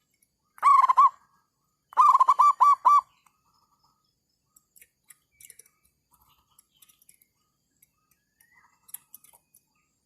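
Zebra dove cooing: one drawn-out note, then about a second later a quick run of about six short staccato coos. Faint chirps and clicks follow.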